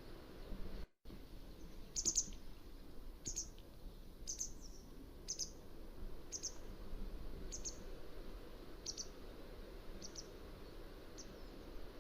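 Mountain wagtail calling: a run of about nine short, high, thin calls, roughly one a second. Near the start the sound drops out completely for an instant.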